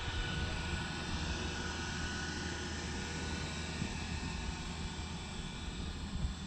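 Aircraft passing at a distance: a steady rumble with a low hum.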